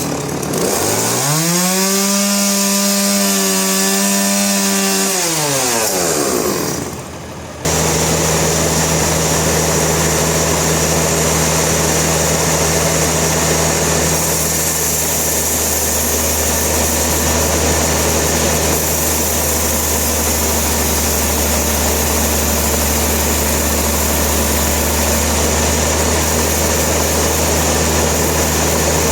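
Sawmill machinery. A saw's motor rises in pitch, holds steady for a few seconds and winds back down. After a sudden change, steady machine noise with a low hum carries on.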